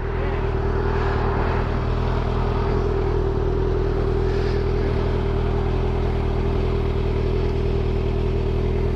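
Motorcycle engine running steadily at a constant speed, holding one even pitch with no revving.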